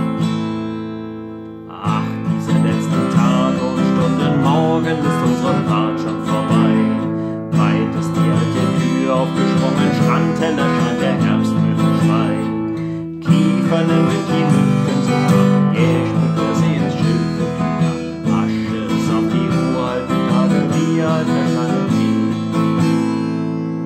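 Acoustic guitar strummed without singing, playing the song's tune. A chord dies away early on, the strumming picks up again about two seconds in, and it drops off briefly once more about halfway before carrying on.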